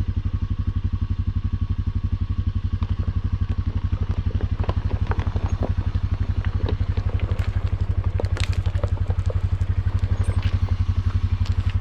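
Husqvarna FE250's single-cylinder four-stroke engine idling with a steady, rapid pulse, with scattered light clicks and rattles over it from about four seconds in.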